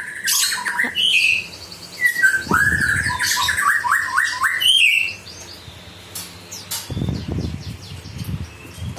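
Birds chirping and calling, with a loud run of quick repeated notes from about two and a half to five seconds in, then quieter chirps.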